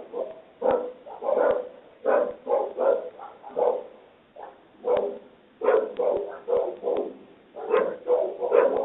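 A dog barking repeatedly in quick runs of short barks, heard through a doorbell camera's narrow-band microphone.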